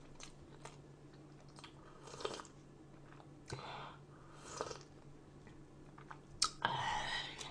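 Close-miked mouth sounds of eating: chewing and crunching food, with scattered small clicks and a few short, louder crunchy bursts, the longest near the end.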